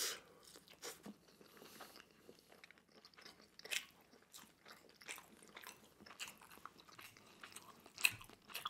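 A person chewing pan-fried rice rolls (cheung fun): soft, scattered mouth clicks and smacks, with a louder bite at the very start and a couple of sharper ones about four seconds in and near the end.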